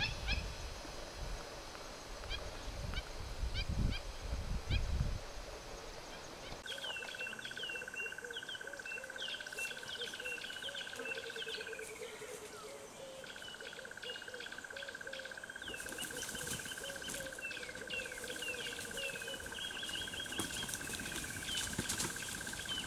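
Wild birds calling and chirping, with many short repeated chirps and a lower repeated call, over a steady high buzz that breaks off briefly about halfway through. Low rumbling in the first few seconds.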